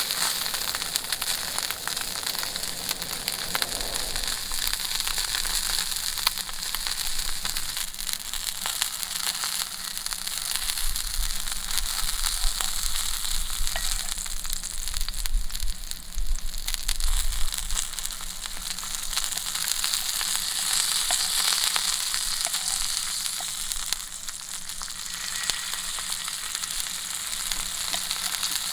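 Beef rump cap (ichibo) sizzling on a hot grill, with a steady hiss and a constant patter of fine crackles as the fat spits.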